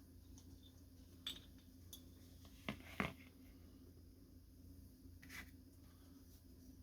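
Quiet handling of a typewriter's small parts: a few brief clicks and scrapes, the loudest two close together about three seconds in, over a low steady hum.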